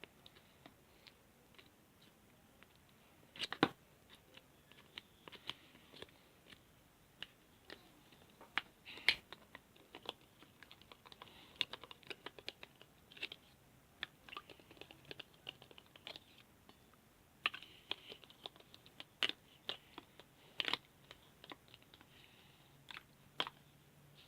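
Slime being worked by hand, giving irregular sticky pops and clicks, some in quick crackling runs, with a few louder snaps.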